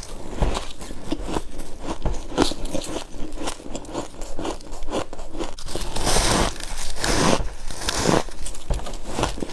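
Freezer frost being bitten and chewed close to the microphone: a run of sharp, crackly crunches several times a second, with a couple of bigger crunching bites.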